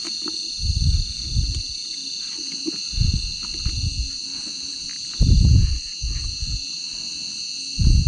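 Steady chorus of insects, with low rumbling thumps about every two seconds, four in all.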